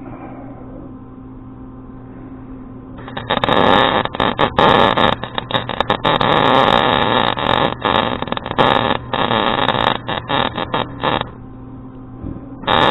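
Electric arc welding: a low hum, then about three seconds in the arc strikes and crackles loudly and unevenly for about eight seconds, breaks off, and strikes again just before the end.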